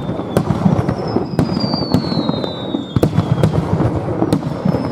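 Fireworks display: a dense, continuous crackle and rumble of bursting shells, broken by many sharp bangs, with whistling tones that glide slowly down in pitch, about three of them in a row.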